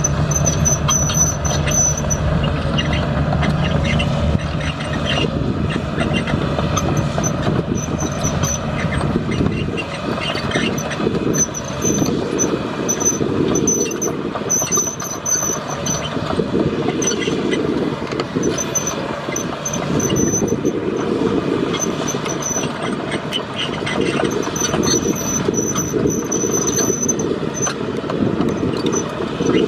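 Heavy construction machinery running under load, a steady engine rumble with repeated short high-pitched metallic squeals.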